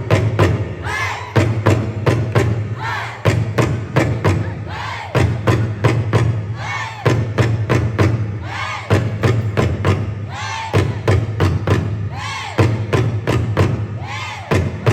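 Drum ensemble playing a fast, driving rhythm of strikes, with heavy low drum beats falling in phrases about two seconds long.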